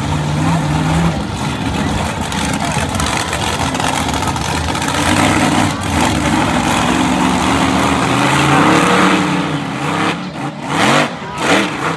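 Monster truck's alcohol-burning racing engine running loud, with the revs climbing and dropping toward the end.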